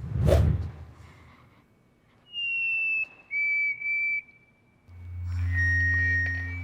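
A person whistling the two-note 'fee-bee' song of a black-capped chickadee: a higher note, then a lower one with a short break in it. A low boom sounds at the very start, and about five seconds in a low drone swells up.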